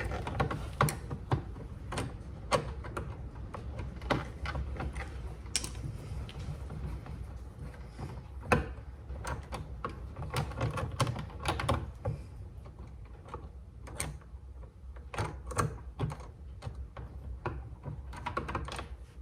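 Phillips screwdriver working a screw out of a car's interior door trim: irregular clicks, ticks and small knocks of the tool on the screw and the plastic panel.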